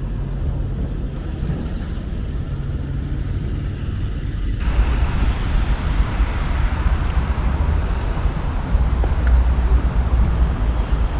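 Urban traffic rumble on a wet street, joined suddenly about four and a half seconds in by a steady hiss that stays on.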